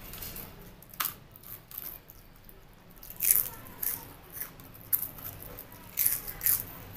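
Close-up eating sounds: crisp fried potato chips bitten and chewed along with a mouthful of rice, giving a series of sharp crunches at uneven intervals, the loudest a little over three seconds in.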